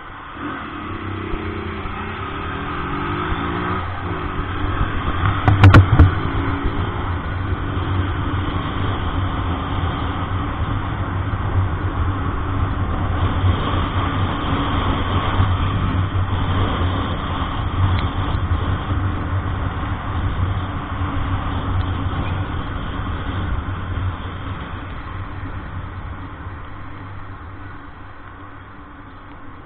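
Truck engine and tyre noise heard from inside the cab while driving on a wet road, the engine note rising as it pulls in the first few seconds. There is a single sharp knock about six seconds in, and the sound eases off toward the end.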